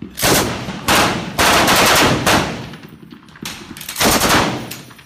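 Machine guns firing repeated short bursts of a few rounds each, several bursts in quick succession; after about three seconds the bursts come quieter.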